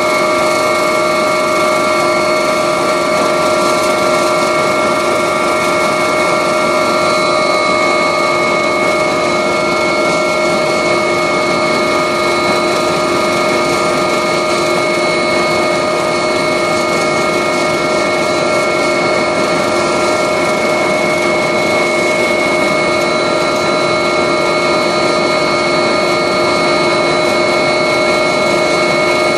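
Agusta helicopter in steady flight heard from inside the cabin: a loud, even rush of turbine and rotor noise with several constant high whining tones from the engines and gearbox.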